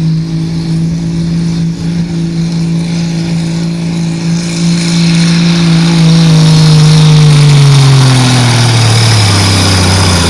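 Minneapolis-Moline G1000 pulling tractor's six-cylinder engine running hard at high, steady revs under load during a pull, getting louder through the middle. Near the end the engine speed drops and the pitch falls as the run ends.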